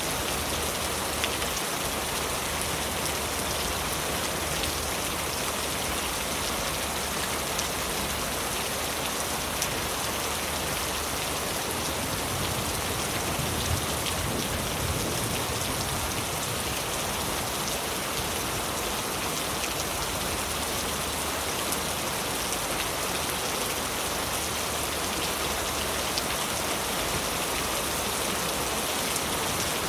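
Heavy rain falling steadily on leaves, a dense even hiss with scattered louder drop taps.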